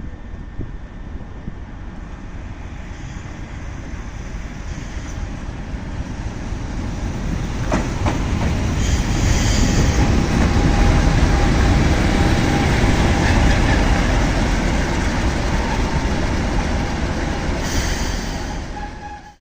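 A train passing close by on the railway, growing louder over about ten seconds and staying loud, then cut off abruptly at the end.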